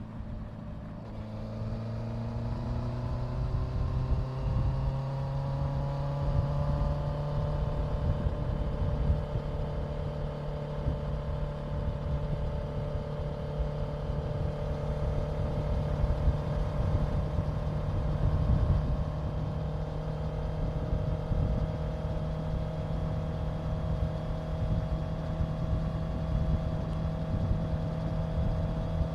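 Honda CBR650F's inline-four engine pulling on the move: the engine note climbs over the first several seconds, then holds a steady cruise, creeping slowly higher toward the end. Wind buffets the microphone with a rough low rumble.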